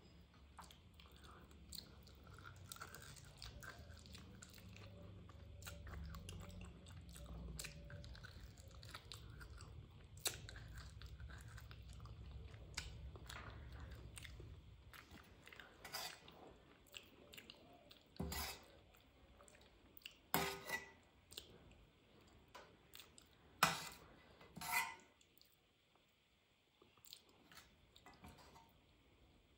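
Close-miked chewing and mouth sounds of a person eating rice and mutton curry by hand, then about five sharp clinks of a steel spoon against a steel pan and plate in the second half as more curry is served.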